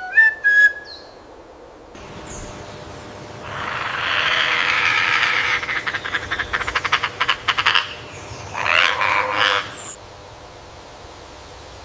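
A bird gives a long, harsh, rasping call that breaks into a fast rattle, then a second, shorter harsh call, with a clear whistled note just at the start.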